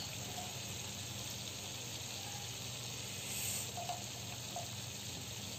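Chicken and spice masala sizzling gently in a pan: a faint, steady frying hiss that swells briefly a little past halfway.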